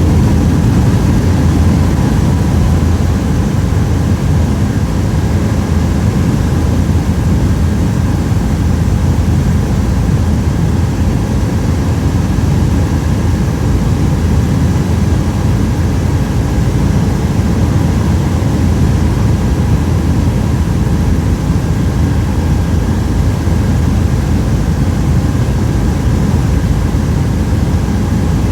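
Helicopter in flight: a loud, steady drone of engine and rotor, with a faint steady whine above it.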